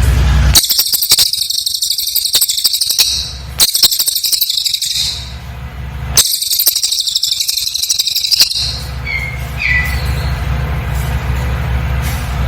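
Cililin songbird singing rapid, very high-pitched trilled bursts: three bursts of a few seconds each separated by short pauses, then two brief chirps. A steady low hum fills the gaps.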